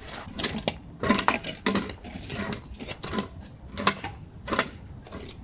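About a dozen sharp knocks and clinks of cooking utensils and dishes, coming irregularly one to three a second.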